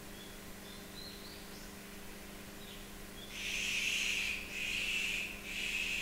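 Birds calling in a bamboo grove: faint short high chirps, then from about halfway three loud, harsh, noisy calls, each about a second long.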